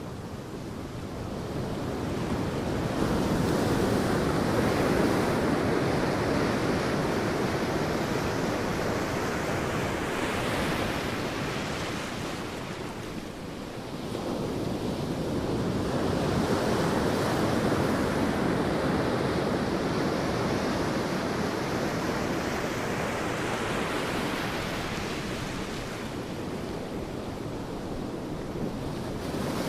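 Sea waves breaking on a beach, the surf swelling and falling away in slow surges about every ten to twelve seconds, with some wind noise on the microphone.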